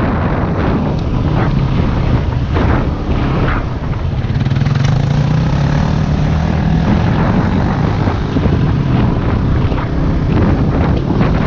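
Yamaha WR250R's single-cylinder four-stroke engine running steadily under way, its note firming up and climbing slightly about halfway through.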